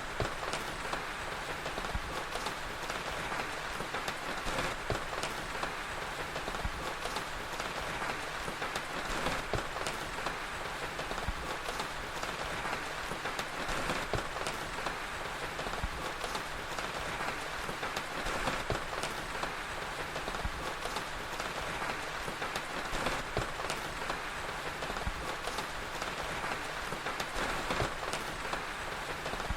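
Steady rain falling, with many scattered sharp crackles of a wood fire over it.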